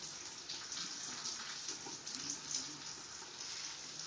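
Chicken cutlets frying in oil in a pan: a steady sizzle with small crackles.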